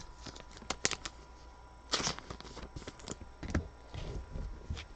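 Football trading cards being handled and flipped through: scattered light clicks and short rustles as cards are slid across one another, with a louder rustle about two seconds in.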